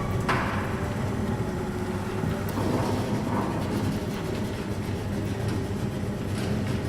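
Automatic garage door in motion: its drive motor hums steadily and the door rumbles along its tracks, with a sharp clunk just after the start.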